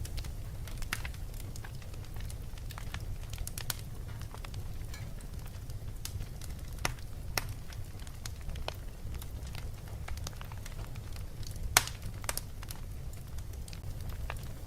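Crackling fireplace: irregular sharp pops and snaps over a steady low rumble, with one pop much louder than the rest late on.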